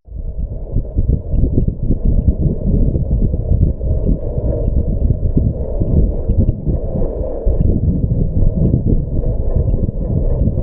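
Wind buffeting the microphone: a loud, uneven low rumble that flutters constantly.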